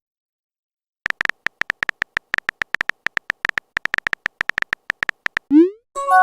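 Smartphone keyboard typing sound effects: a rapid, uneven run of short tapping clicks for about four seconds. Then a short rising whoosh of a message being sent, and a chime of a few steady tones, a message notification, begins near the end.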